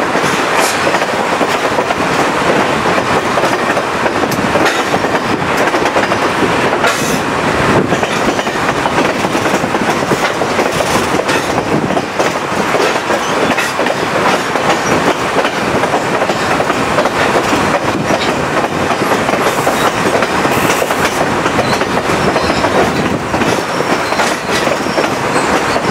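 Chepe passenger train of the Chihuahua–Pacific Railway running along the track: a steady rush and rumble of wheels on rails, with scattered clicks as the wheels pass over rail joints.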